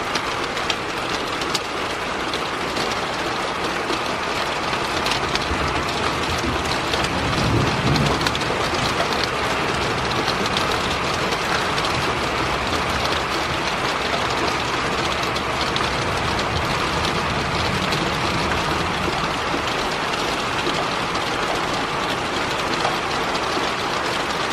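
Heavy rain falling steadily, with gusty wind; a stronger gust swells about eight seconds in.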